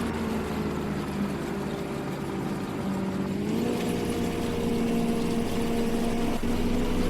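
A farm machine's engine running steadily. The engine speed picks up in a short step about three and a half seconds in, then holds at the higher pitch.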